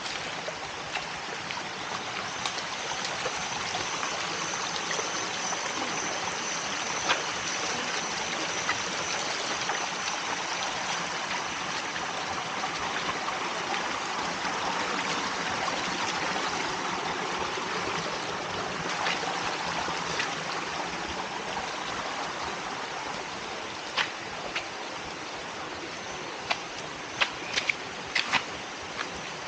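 Stream water rushing and splashing steadily over rocks. A few sharp clicks or knocks sound near the end.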